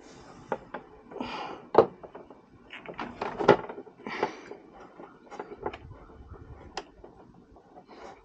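Hands handling drain tubes and tools: irregular clicks, knocks and short rustles, with the sharpest knocks about two and three and a half seconds in.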